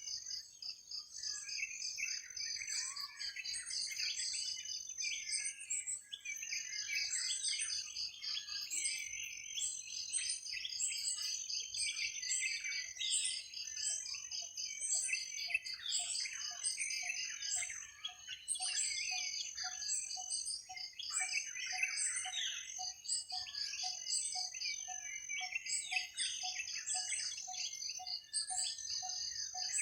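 Forest dawn chorus: many birds chirping and warbling over a continuous high insect trill. From about halfway through, a lower call starts up and repeats steadily about twice a second.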